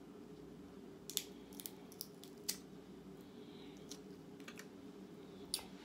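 Cutlery clicking against a plate during eating: a handful of light, scattered clicks over a steady low hum.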